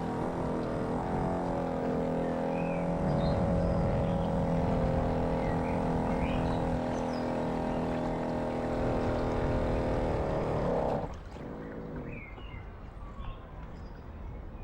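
Model camera boat's motor running steadily, its pitch wavering just before it cuts off about eleven seconds in. Birds chirp throughout.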